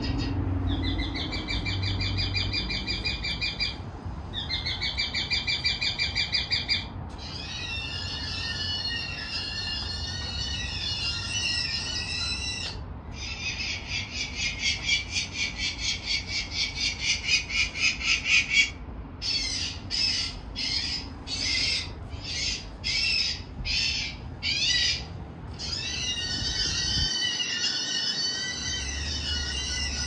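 Birds giving shrill, rapidly trilled calls over and over, some held at an even pitch and some wavering, with short breaks between them.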